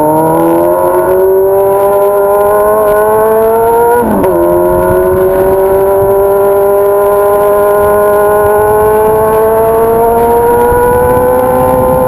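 Honda Hornet 600 inline-four motorcycle engine running through a 3-inch exhaust under acceleration. The pitch climbs, drops sharply at an upshift about four seconds in, then rises slowly through the next gear.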